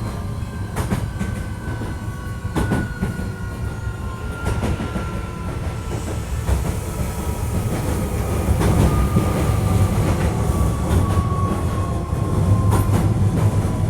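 Hankyu 1300 series electric train running, heard from inside the car: a steady low rumble, irregular clacks of the wheels over rail joints, and a whine that falls slowly in pitch as the train slows for the next station.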